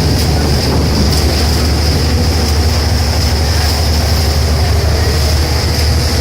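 Steady low rumble of a vehicle in motion, with a constant high whine over it.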